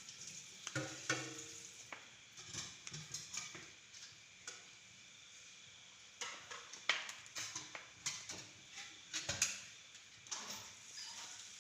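Irregular rustling, scraping and light knocks from handling as shot green pigeons are packed into a container.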